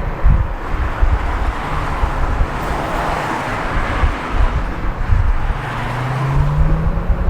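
Riding noise on a Silence S01 electric scooter: wind buffeting the microphone over road and traffic noise, with a swell of noise about three to four seconds in like a vehicle passing. Near the end a whine rises steadily in pitch.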